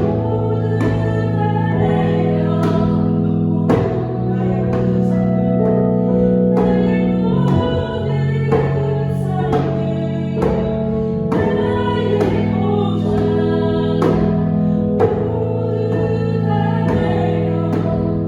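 Worship song: keyboard chords held under a sung melody, with djembe strokes keeping a steady beat about once a second.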